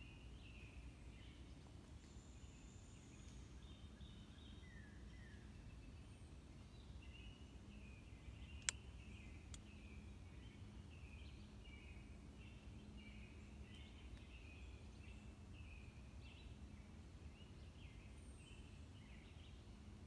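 Faint woodland birdsong: many short chirps and calls from several birds, over a steady low background rumble. A single sharp click, the loudest sound, cuts in about nine seconds in, with a fainter one just after.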